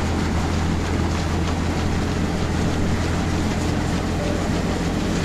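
Tractor-driven groundnut threshing machine running steadily: a constant low drone from the tractor engine with an even rattling noise from the machine above it.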